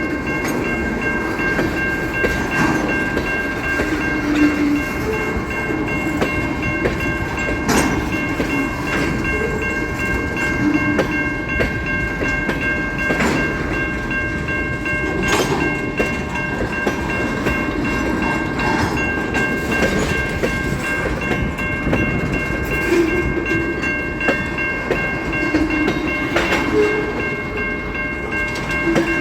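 Freight train rolling by: a steady rumble of railcars with irregular clicks of wheels over rail joints, and several steady high-pitched tones held throughout.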